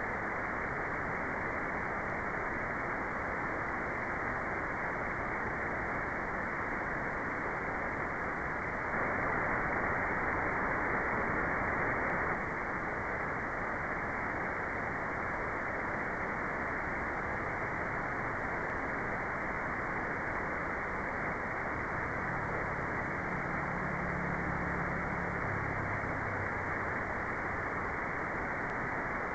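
Steady white noise: a smooth, even hiss with the treble cut off, so it sounds muffled rather than bright. It gets slightly louder for about three seconds starting about nine seconds in.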